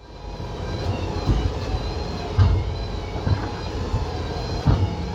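Boat engine running steadily with a constant hum, with several low thuds at uneven intervals.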